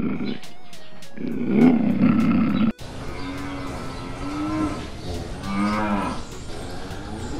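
A lion's low growl, then, after an abrupt cut, a zebu-type cow mooing twice: a long, steady moo followed by a shorter, lower one.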